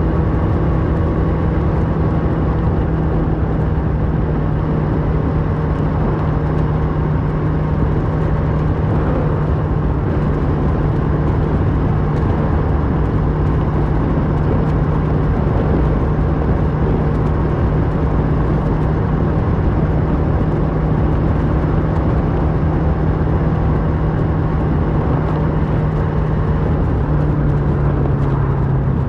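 Kawasaki Versys 650's parallel-twin engine running at a steady cruise through a MIVV slip-on exhaust, its pitch held even and then dropping slightly near the end as the bike eases off.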